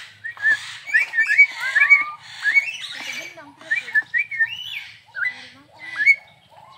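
Crested myna singing busily: a fast jumble of short, rising whistles and harsh, scratchy chatter notes, several a second, with a few lower gliding notes in between.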